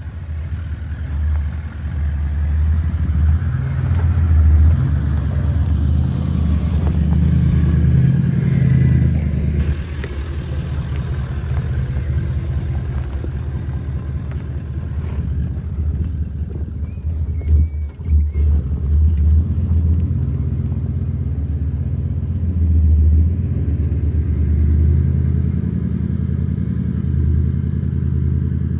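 Toyota LandCruiser's V8 engine running under way on a 4WD track, a steady low drone that swells and eases with the throttle. A few sharp knocks or clatters about two-thirds of the way through.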